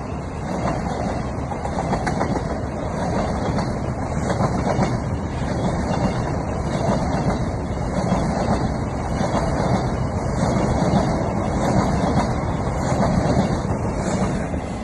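Orient Express passenger train passing close by, a steady loud rumble of its wheels on the rails with light clatter, easing off at the very end.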